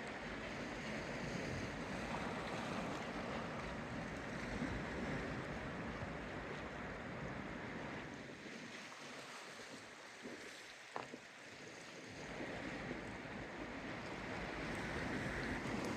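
Wind rumbling on the microphone over a steady wash of sea water, easing off for a few seconds near the middle, with a single light click about eleven seconds in.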